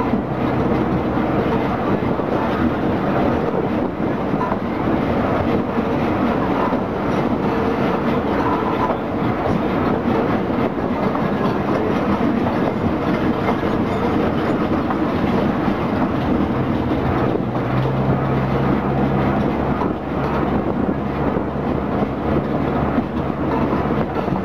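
Botchan Ressha, a diesel-powered replica steam tram train, running along the tramway, heard from the coach's open end platform close behind the locomotive: a steady rumble of engine and wheels on the rails. The engine note grows stronger for a few seconds about two-thirds of the way through.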